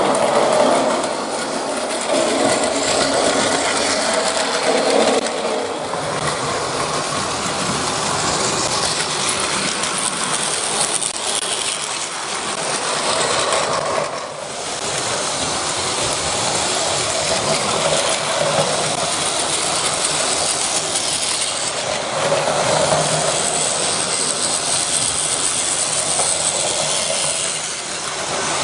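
Battery-powered Plarail toy trains running on plastic track: a steady whir of small motors and clatter of plastic wheels over rail joints, rising and falling as they pass.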